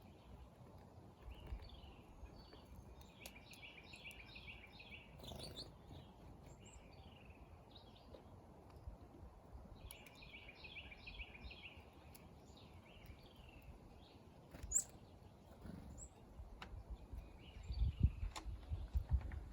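Birds singing: a songbird twice gives a quick phrase of rapid repeated notes, with scattered chirps from other birds over a faint steady hiss. Near the end come low rumbling thumps, the loudest sound.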